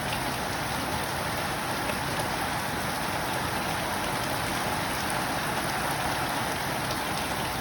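Heavy rain falling steadily: a dense, even hiss of downpour with no thunder.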